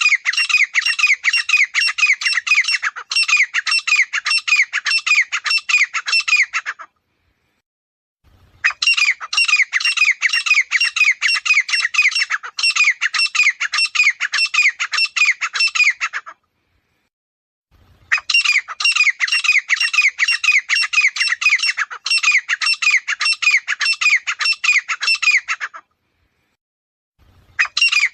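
Grey francolin calling: loud, harsh notes repeated rapidly in bouts of about seven seconds, each bout cut off by a short complete silence before the next begins.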